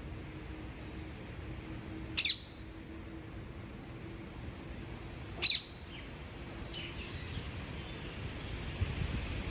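Bird calls: two loud, short calls about three seconds apart, then a few fainter ones just after, over a low background rumble and a faint steady hum.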